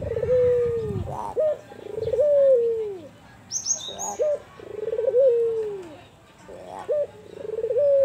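An albino puter (Barbary dove) cooing over and over. Each coo is a short clipped note followed by a long coo that falls away in pitch, repeating about every two and a half seconds. A brief high chirp comes a little past three seconds in.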